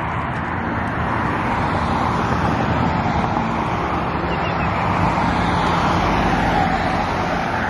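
Steady road traffic noise, a rushing of tyres that swells a little past the middle as a vehicle goes by.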